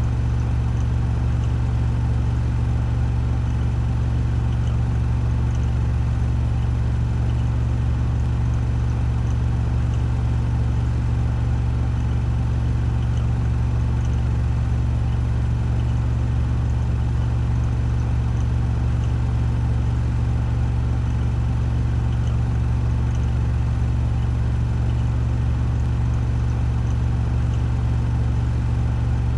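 Washing machine on a 1400 rpm spin cycle, a steady low hum with a faint whir above it, unchanging throughout.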